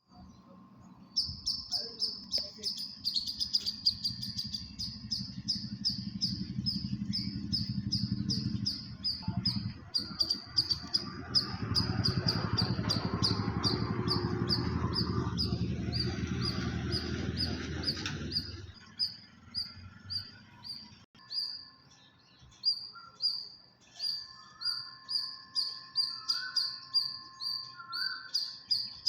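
A bird chirping in a fast, even series of short high notes, about three or four a second. A low rumbling noise runs under the chirps for most of the first two-thirds, then stops suddenly.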